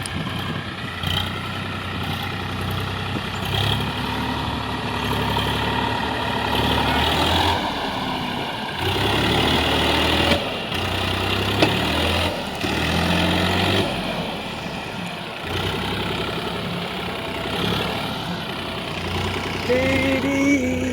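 Massey Ferguson 7250 DI tractor's diesel engine running under heavy load while pulling a loaded trolley. The engine note shifts up and down in pitch, with several short dips along the way.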